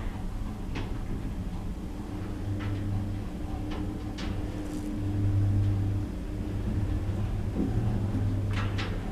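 Passenger lift running: a steady low motor hum that swells a little partway through, with scattered sharp clicks and a quick cluster of clicks near the end.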